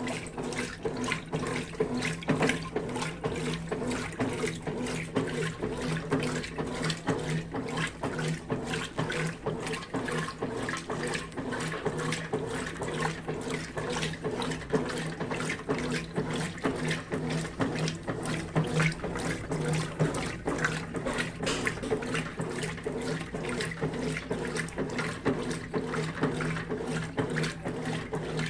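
Brastemp BWK12 12 kg washing machine washing blankets and towels: a steady motor hum under continuous sloshing and churning water.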